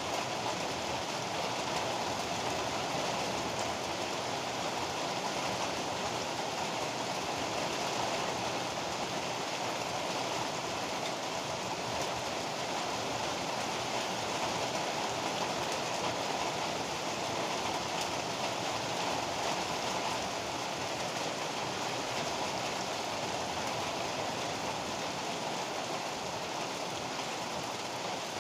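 Heavy rain pouring steadily, an even, unbroken hiss with no thunder.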